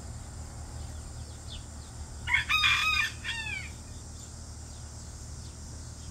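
A bird's call, once about two seconds in: a loud held note that ends in a quick falling slur.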